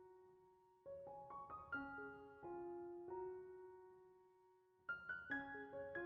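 Background piano music: soft phrases of notes that ring and fade, with a slow decaying held note in the middle.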